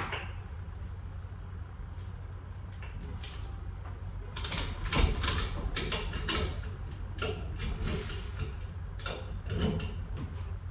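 Irregular clicks and rattles of straps being worked to tie down a load in a box truck, coming in clusters, over a steady low hum.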